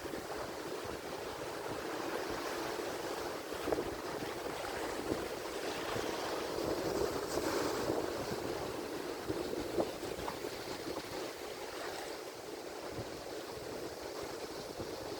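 Ocean surf: waves breaking and washing ashore in a steady rush, swelling to a peak about halfway through and then easing.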